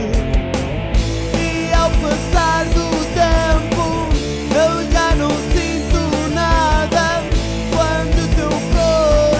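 Rock band demo recording playing between sung lines: drums, bass and electric guitars, with a lead melody that bends up and down in pitch from about a second in.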